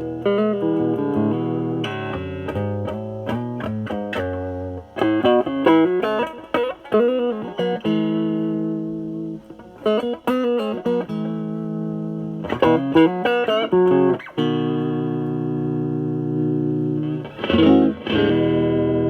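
Semi-hollow electric guitar played through a NOBELS ODR-1 overdrive pedal with bass-cut mod, drive set around 9, into the clean channel of a Marshall Valvestate amp: overdriven picked note runs and chords. A chord is held and left ringing for a few seconds near the end, then struck again.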